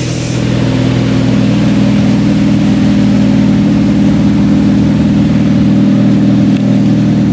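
Honda Civic FN's 1.8 R18 four-cylinder engine running through a loud custom exhaust, holding a steady, even drone at constant revs.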